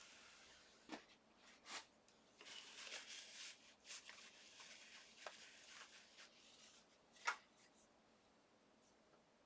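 Faint handling and rustling of paper and cardstock, with a few light taps and one sharper click about seven seconds in.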